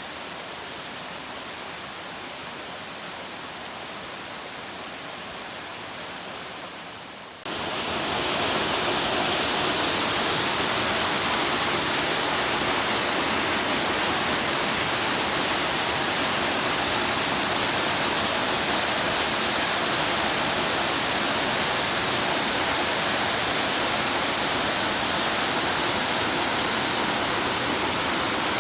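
Waterfall rushing in a steady roar of falling water. It jumps suddenly louder and brighter about seven seconds in and then holds steady.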